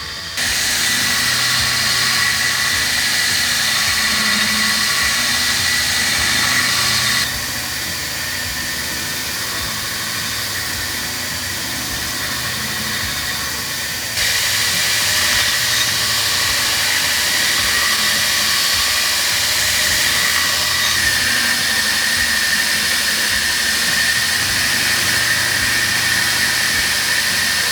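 A machine running steadily with a constant high whine over a hiss. It drops abruptly in level about 7 seconds in and comes back up abruptly about 14 seconds in.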